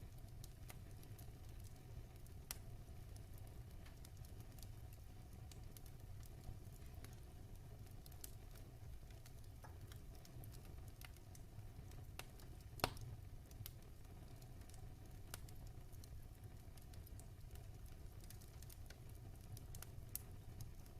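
Wood fire crackling faintly, with scattered small pops over a steady low rumble and one sharper crack about two-thirds of the way through.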